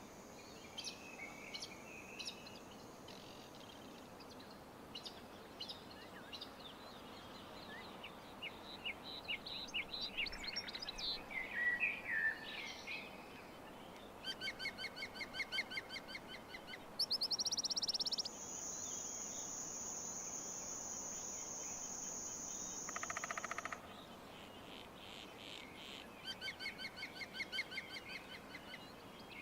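Several wild birds calling and singing over a steady background hiss, with short chirps and rapid repeated trills. A single high, steady whistle holds for about five seconds past the middle.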